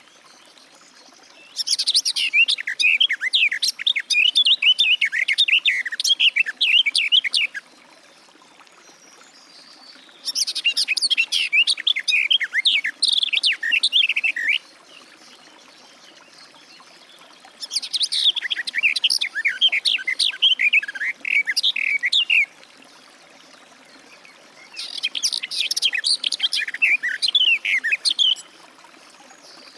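Garden warbler (Sylvia borin) singing: four long phrases of fast, continuous warbling, each lasting about four to six seconds, with pauses of a few seconds between them.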